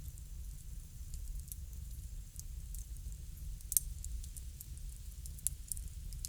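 Bonfire crackling: a steady low rumble of flames with many small crackles, and two louder sharp pops near the middle and later on.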